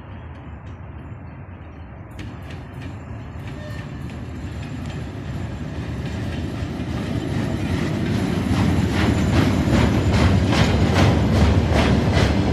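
TEM2 diesel shunting locomotive hauling a freight train, growing steadily louder as it approaches: a low diesel rumble with wheels clicking over rail joints. The clicks start about two seconds in and come thicker and more regular toward the end.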